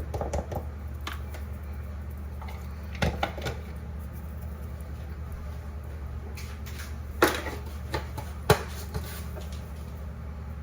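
Kitchen containers and utensils being handled: a few scattered clicks and knocks, the sharpest two near the middle and about two-thirds through, over a steady low hum.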